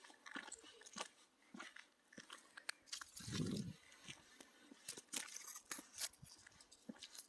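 Irregular small crackles and snaps, like dry undergrowth being rustled and broken, with one duller low thud a little past three seconds in.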